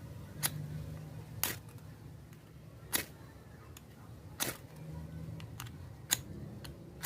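A mini ferro rod struck five times, each a short sharp scrape, about one every second and a half.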